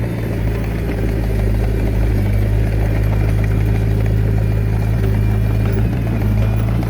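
Diesel engine of heavy earthmoving equipment running at a steady speed, a deep even hum.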